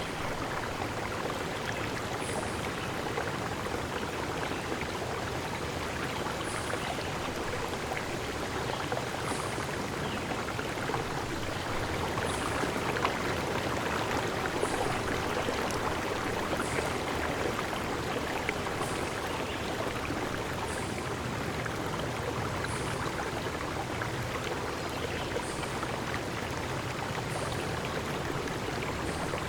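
Steady flowing water, an even rushing. A short high chirp recurs about every two seconds.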